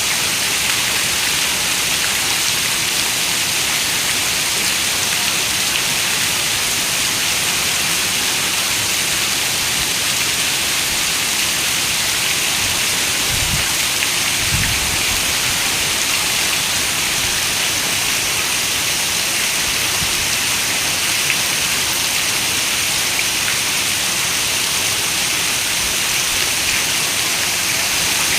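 Heavy rain on a window, a steady dense hiss. About halfway through come two brief low rumbles about a second apart, like distant thunder.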